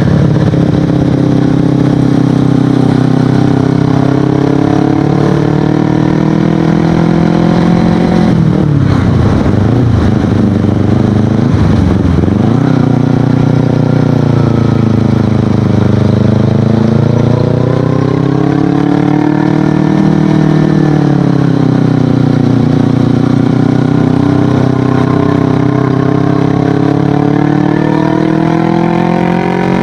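Kawasaki Ninja 250FI parallel-twin with an aftermarket Akrapovic exhaust, under way on the road. The engine note holds steady, drops sharply with a couple of quick dips about eight to twelve seconds in, then rises and falls twice with the throttle.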